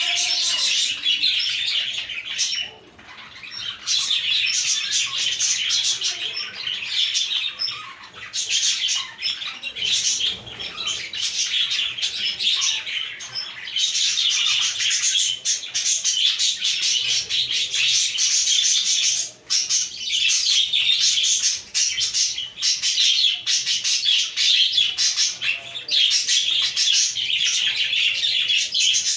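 A flock of budgies (budgerigars) chirping and warbling continuously, many birds at once in a dense, unbroken chatter, with a faint low hum underneath.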